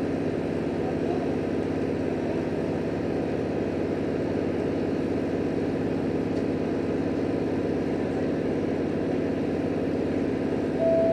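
Steady cabin noise of a JR Hokkaido H100 diesel-electric railcar: an even engine drone heard from inside the carriage. A single steady tone starts right near the end.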